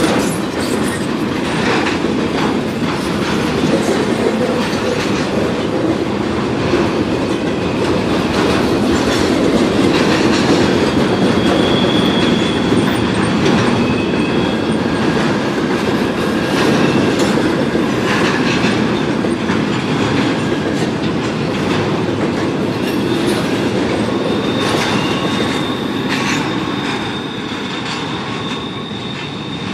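Intermodal freight train of truck trailers on flatcars rolling past, with a steady rumble and irregular clatter of wheels over the rails. A thin high wheel squeal comes in around the middle and again near the end, and the sound eases off in the last seconds as the final cars go by.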